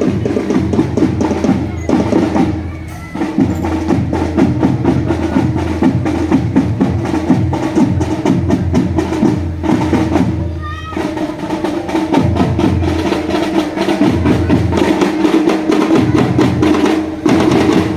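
Marching drum band playing: snare and bass drums beating a fast, busy rhythm over a held melodic tone. The drumming thins briefly about three seconds in and again about ten seconds in.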